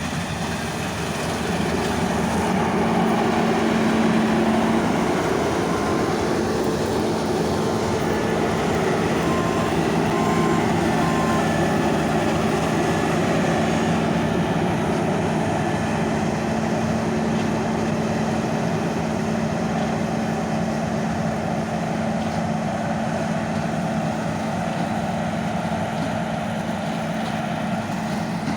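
Heavy diesel engine of large farm machinery running steadily under load; it grows louder about two seconds in. A few short electronic beeps sound in the first half.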